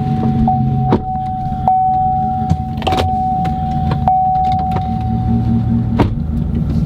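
Pickup truck engine running at idle, with a steady high whine over it for most of the time and a few sharp clicks.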